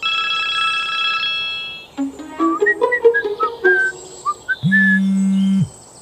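A string of electronic, music-like sound effects: a held whistling chord, then a quick run of short notes stepping upward, then a low buzz lasting about a second near the end.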